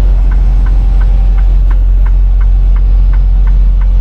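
Tractor-trailer's diesel engine droning steadily inside the cab, with a turn signal ticking evenly about three times a second.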